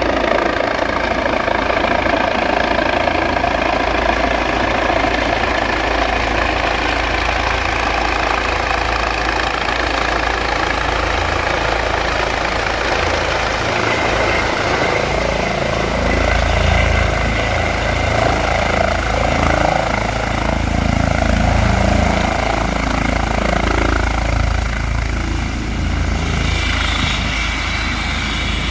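Helicopter coming in to land: a steady turbine whine over loud rotor noise, the low rotor sound growing heavier about halfway through.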